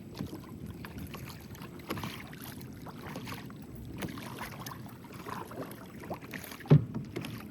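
Wind-driven chop lapping and slapping against a small boat's hull, with irregular small knocks and one sharper knock near the end.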